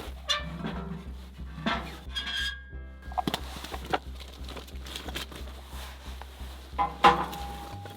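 Metal items clinking and knocking together, a few with a short ring, over quiet background music with a steady beat.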